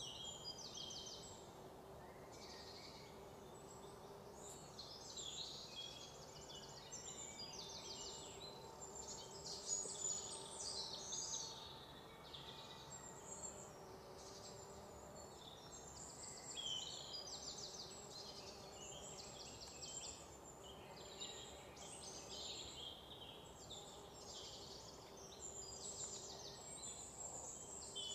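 Many small birds chirping and trilling in quick, high-pitched bursts, over a faint steady hum.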